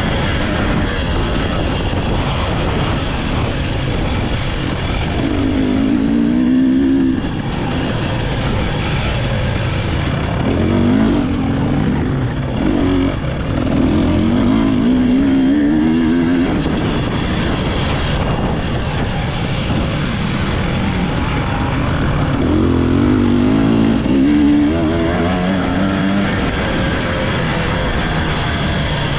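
Dirt bike engine running under throttle, its pitch climbing and dropping in several spells, over a steady loud rushing noise.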